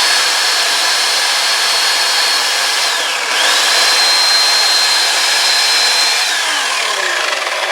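Electric chainsaw running flat out with a high motor whine. The motor slows and picks up again about three seconds in, then winds down near the end.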